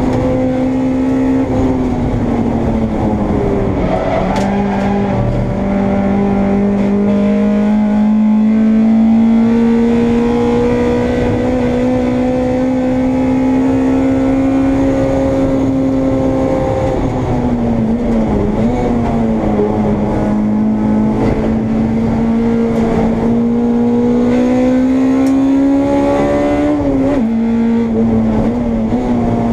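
Honda Integra race car's engine heard onboard at racing speed, its note climbing slowly through the revs and falling away about four seconds in, again around halfway, and once more near the end, as with gear changes and braking for corners.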